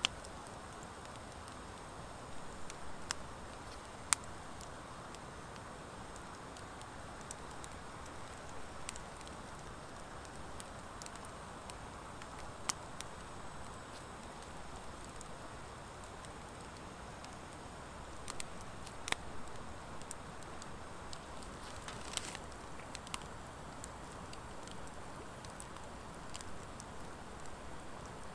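Wood fire of driftwood and dry hardwood logs burning, with a steady soft hiss and scattered sharp crackles and pops from the hardwood. Two pops stand out, one right at the start and one about four seconds in, and there are small flurries of crackling later on.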